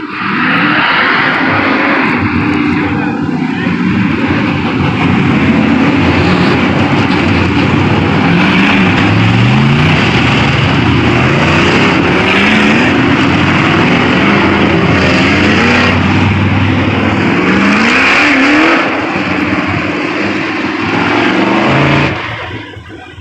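A field of sprint cars racing, their V8 engines revving up again and again as the cars accelerate past. The sound cuts off abruptly near the end.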